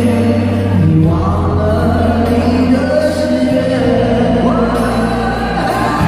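Live pop-rock ballad played by a band with male lead vocals, sung notes held and rising in pitch about a second in and again near the end, over a steady bass.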